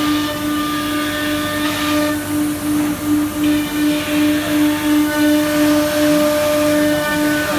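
Automatic tool changer CNC router running: a steady machine whine with a hum that pulses about three times a second, over a hissing noise.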